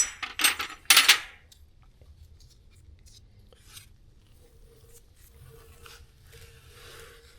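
Metal tools and parts clinking and clattering in a few sharp, loud hits during the first second and a half, then only faint scattered ticks and rubbing.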